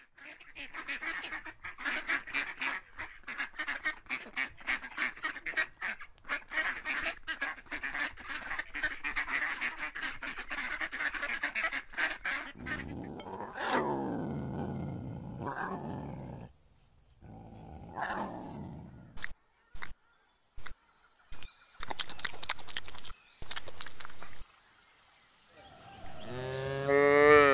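A flock of waterfowl honking and quacking in rapid, overlapping calls for about twelve seconds, followed by other animal calls that waver in pitch, several abruptly cut short blocks of steady sound, and a cow starting to moo near the end.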